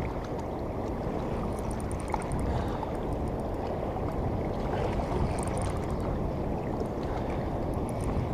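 Steady low rushing noise of wind and moving river water, with faint quick high ticks twice, about two seconds in and again past the middle.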